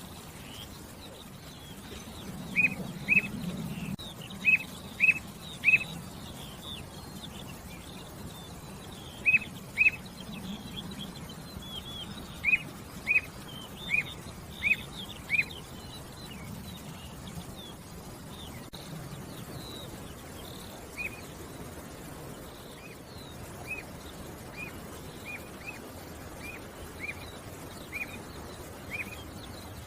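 Birds chirping: one bird repeats a short, clear note in quick runs of two to five, while fainter, higher chirps from other birds go on around it. The repeated notes grow softer in the second half.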